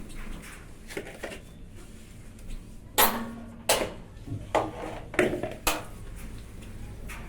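Feed dishes clattering as they are handled at feeding time: about five sharp knocks and rattles in the second half, the loudest about three seconds in.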